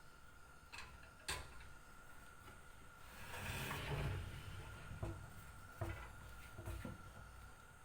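Kitchen handling sounds: a few light knocks and clicks of objects being set down or moved, with a short swell of rustling in the middle.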